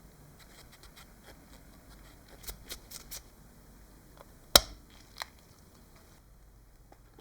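Small sharp clicks from hand work on a small model: a few light clicks, then one much louder snap about halfway through and another soon after.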